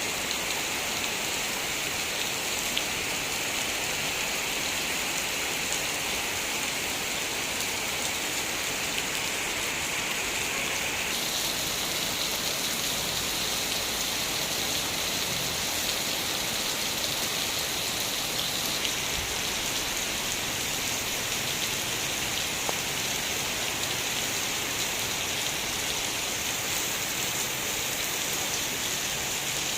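Heavy rain falling steadily, an even hiss of drops on surfaces; the tone of the hiss shifts about a third of the way in.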